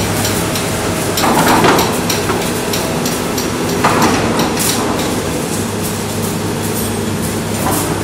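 Kobelco excavator's diesel engine running steadily, with three short noisy bursts of mechanical noise about a second and a half in, about four seconds in and near the end.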